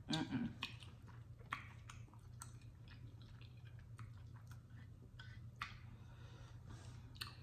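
A person chewing a mouthful of chitterlings, with many small, irregular clicks.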